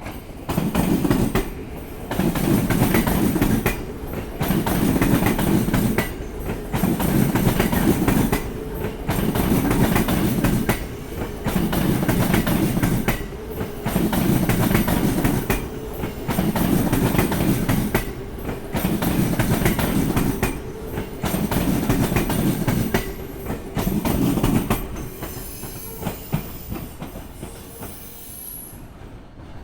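Train rolling over rail joints: heavy clacking in loud clusters about every two seconds as each car's bogies cross the joint, about a dozen clusters, then the train's sound fades away over the last few seconds.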